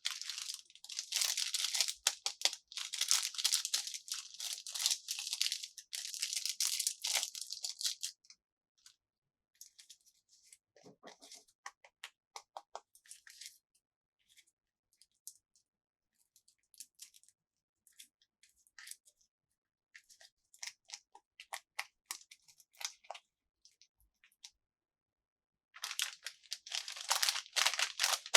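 Crinkly packaging being torn open and crumpled by hand in dense crackling bursts for the first several seconds. Lighter scattered clicks and rustles of small pieces being handled follow, and heavy crinkling starts again near the end.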